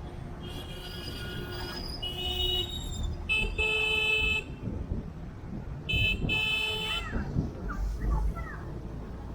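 Vehicle horns honking in road traffic: several blasts of different pitches, each about a second long, over a steady low rumble of traffic.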